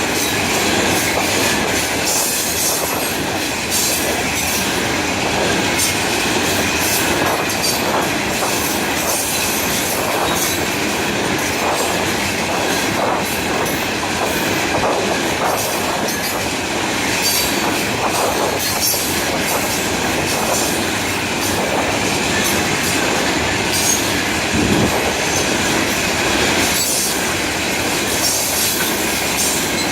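Freight cars of a Florida East Coast Railway train rolling past close by: a steady loud rumble of steel wheels on rail, with irregular clicks over the rail joints and a steady high-pitched whine from the wheels.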